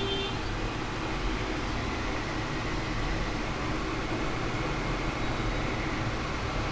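Hot air rework station blowing a steady rush of air, heating the phone board to lift the shield, after a short electronic beep right at the start.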